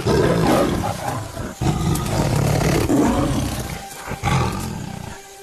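Tiger roaring in three long, rough bursts, loud, with short breaks between them.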